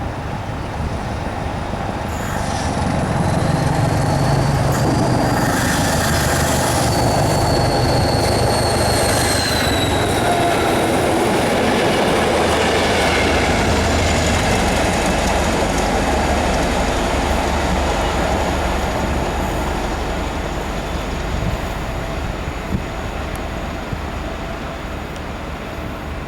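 NIR 80 Class diesel-electric multiple unit passing: the engine and wheels grow louder over the first few seconds, then run past with high-pitched wheel squeal, and the sound fades away over the last several seconds.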